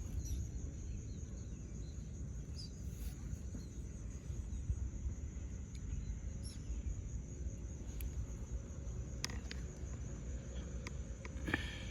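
A steady high-pitched chirring of insects, likely crickets, over a low rumble, with a few small clicks near the end.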